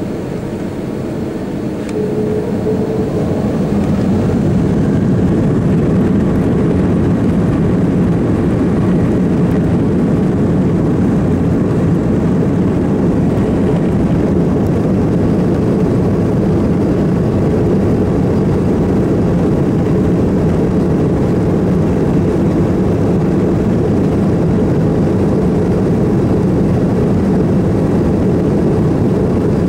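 The Airbus A330-300's General Electric CF6 turbofan engines spooling up, with a faint rising whine and growing louder over the first few seconds, then a steady, loud roar at take-off power.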